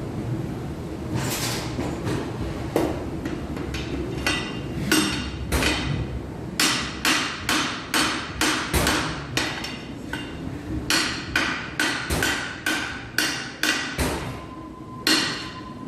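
Hammer blows on metal: a few scattered strikes, then a steady run of about two a second, each with a short metallic ring.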